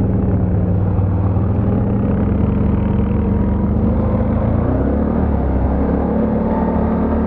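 ATV engine running steadily under way, its note changing about two-thirds of the way in.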